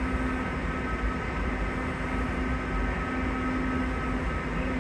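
Steady hum and whine of a stationary Keisei Morning Liner train's onboard equipment, with two constant tones over an even rushing noise.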